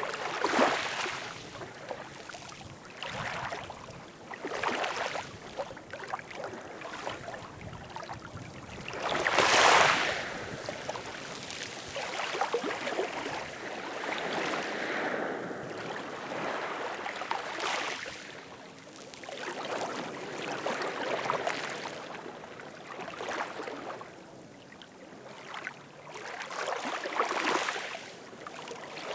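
Ocean waves washing in again and again, each surge of surf rising and falling away every few seconds, the biggest about a third of the way in.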